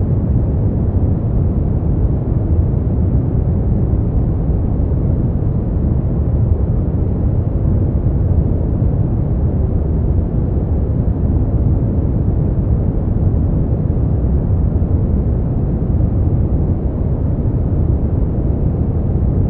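Steady brown noise: an even, deep rushing hiss, heaviest in the bass and falling away toward the treble, with no tones or events.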